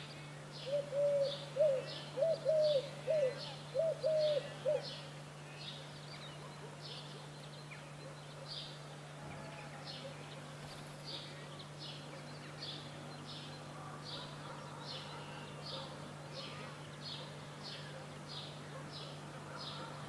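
Birds calling: a small bird gives short high chirps over and over, and in the first five seconds a louder bird gives a run of lower, arched calls, about eight of them. A steady low hum runs underneath.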